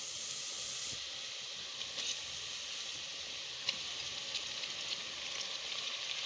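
Sliced onions frying in hot oil in a pressure cooker: a steady sizzle, with a few faint ticks.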